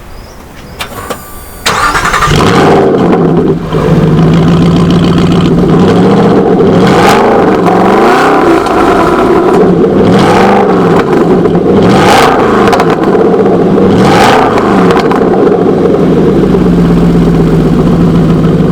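Aston Martin Vantage GT8's 4.7-litre V8 is cranked by the starter and fires up with a loud flare about two seconds in. It then settles and is revved in a series of sharp blips, each rising and falling, before dropping back to a steady idle near the end.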